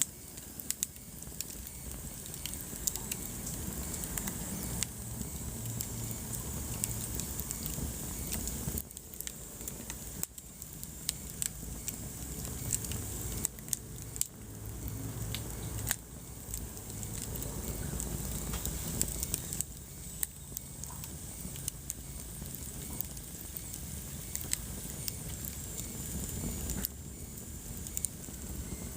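Wood fire crackling in a fireplace: scattered sharp pops and snaps over a low steady rumble of burning.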